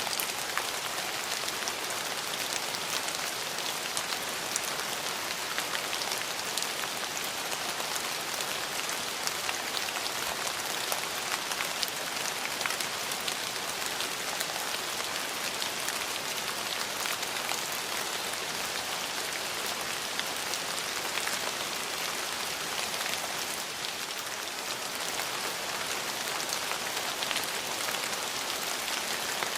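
Steady rain falling, an even hiss dense with the ticks of individual drops striking surfaces.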